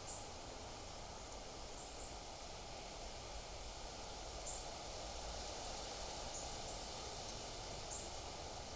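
Small bird giving short, high chip calls every second or two, some in quick pairs, over a steady outdoor hiss.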